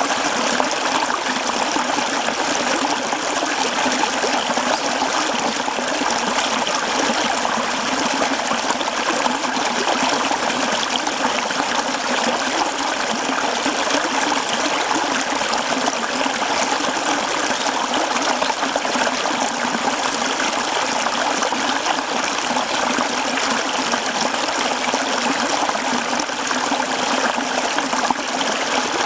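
Mountain stream flowing over rocks: a steady rushing and trickling of water.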